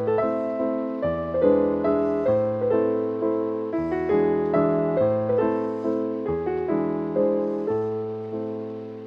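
Background piano music: a gentle melody of struck notes over a repeating bass, each note fading after it is played.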